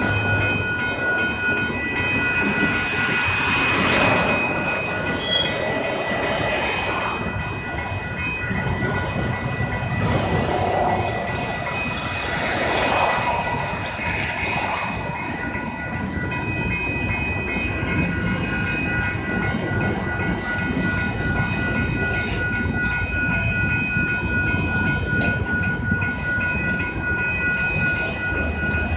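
Freight train of autorack and covered hopper cars rolling past close by: a steady rumble and clatter of wheels on rail. Over it runs a repeated high ringing in quick succession, the crossing bell sounding while the train goes by.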